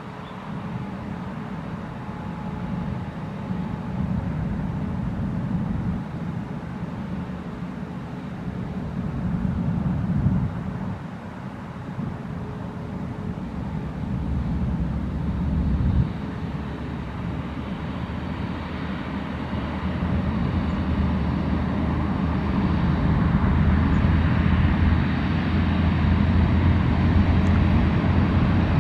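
Jet airliner engines rumbling and growing steadily louder, with a brief swell about ten seconds in.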